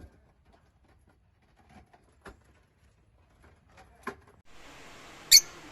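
Lovebirds: a few faint, short clicks, then about five seconds in a single loud, very short, high chirp.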